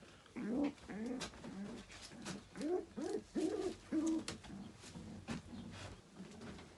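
Racing pigeons cooing: a run of short coos that rise and fall in pitch over about four seconds, with light clicks among them, fading near the end.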